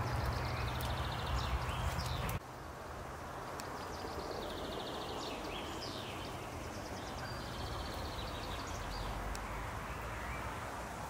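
Small birds singing in woodland: several quick trills and chirps, high-pitched, come at intervals over an even background hiss. A low rumble in the first couple of seconds cuts off abruptly.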